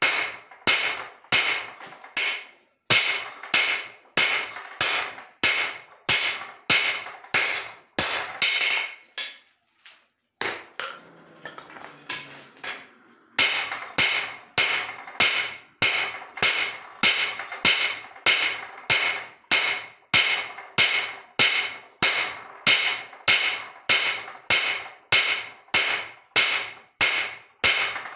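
Hand hammer striking leaf-spring steel on an anvil in steady forging blows, about two a second, each ringing briefly. The blows stop for a few seconds about nine seconds in, with a quieter sound in the gap, then start again.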